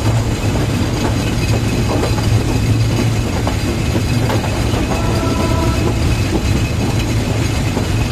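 Passenger train running along the track, heard from a carriage window: a steady, loud rumble with wheel-on-rail noise and occasional clicks over rail joints. A brief faint tone comes in about five seconds in.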